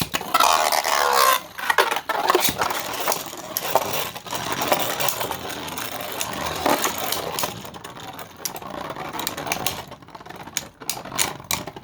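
Two 3D-printed Beyblade spinning tops launched into a Beyblade stadium: a brief whir at the launch, then the tops spinning and clattering against each other and the stadium walls, with sharp clicking hits that come thick near the end.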